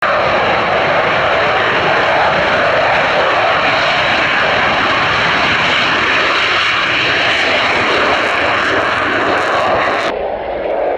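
Eurofighter Typhoon jet engines running loud and steady: a wide rushing noise with a thin high whine on top. About ten seconds in it cuts suddenly to a quieter, duller sound.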